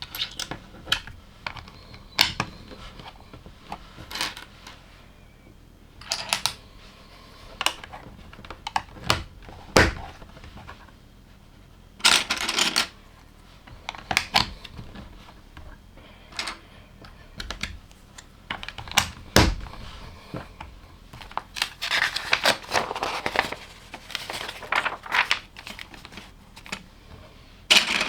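Plastic LEGO pieces clicking, knocking and snapping together while a set is built by hand, in irregular single clicks. Now and then there is a longer rattle of loose pieces being stirred or handled.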